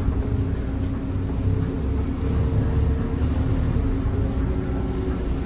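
Scania K280UB city bus's diesel engine running steadily, a low rumble with a steady hum, heard from inside the passenger cabin.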